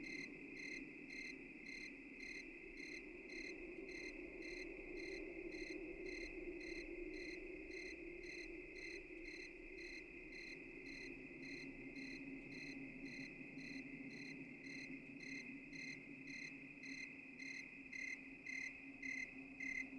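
Crickets chirping in an even rhythm, about two chirps a second, over a continuous high insect trill and a low background hum.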